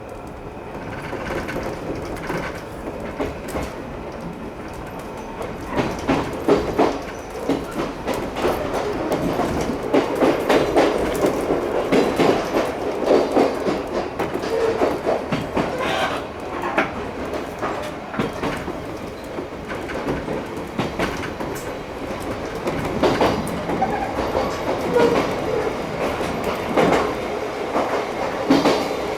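Chichibu Railway 1000 series electric train running along the line, heard from the front car, with its wheels clicking and clattering over the rail joints. It is quieter at first and grows louder from about six seconds in.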